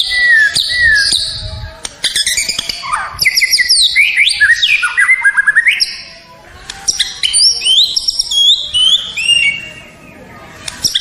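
White-rumped shama (murai batu) singing a long, varied song of clear whistles, up-and-down glides and rapid trills, with a short pause about six seconds in.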